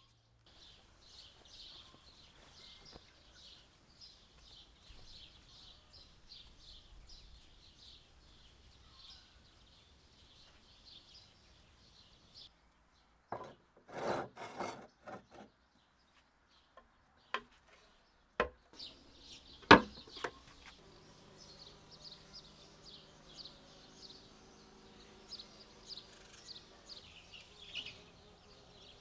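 Rapid, continuous high-pitched chirping. It breaks off suddenly, and a short burst of clatter and three sharp knocks follow before the chirping returns.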